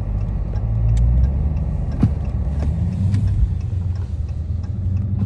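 The 392 HEMI V8 of a Dodge Charger Scat Pack running at low speed, a steady low rumble that swells slightly now and then. A single sharp knock about two seconds in.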